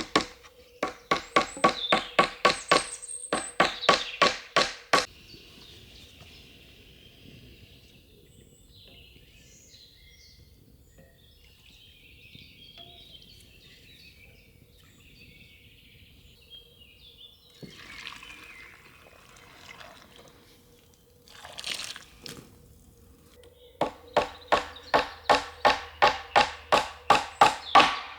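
Knife chopping quickly on a wooden cutting board, about four strokes a second, in two runs: one at the start and one near the end, with a quieter stretch between.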